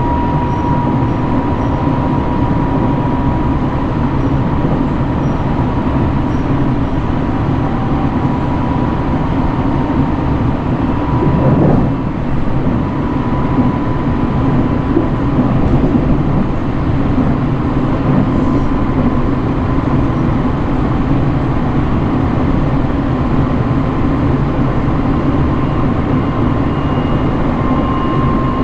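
Sunrise Izumo sleeper train, a 285 series electric multiple unit, running along the line: a steady rumble with a faint steady whine, and a brief swell about twelve seconds in.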